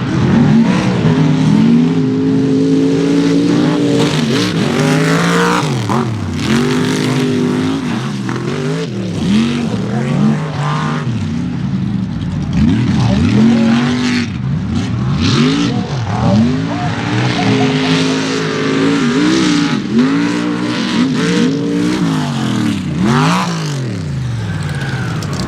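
Mega truck engines revving hard, the pitch repeatedly climbing and dropping back as the throttle is worked through the mud pit.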